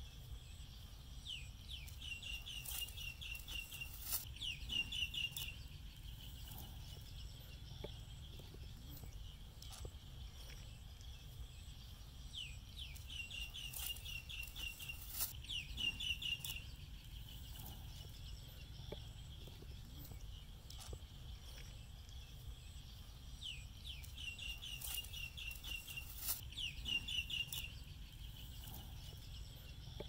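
A bird calling: a short rising note, then a quick run of high chirps, repeated three times about every eleven seconds over a steady low rumble.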